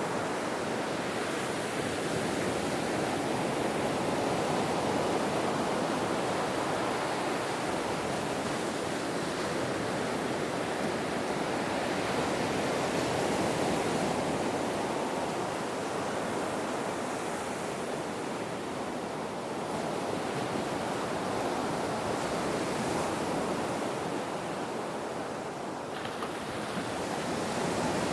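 Ocean waves washing on a shore as a continuous rushing surf that swells and eases slowly.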